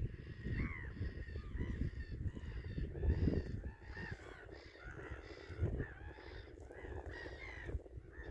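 A group of birds giving many short, harsh, overlapping calls, a few a second, over a low rumble.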